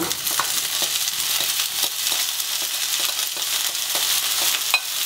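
Chopped onion and bell pepper sizzling as they are scraped into hot oil and minced garlic in a nonstick frying pan, the start of a refogado, with a steady hiss and scattered ticks from a wooden spatula against the plate and pan. A sharper tap comes near the end.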